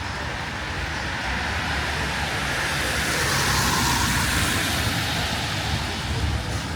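A road vehicle passing close by, its tyre and engine noise swelling to a peak about halfway through and then fading, over a steady low city traffic rumble.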